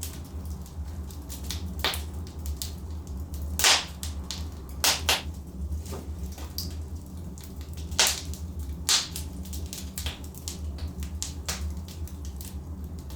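Wood fire in a fireplace crackling, with sharp pops scattered throughout over a steady low rumble; the loudest pops come about four, five, eight and nine seconds in.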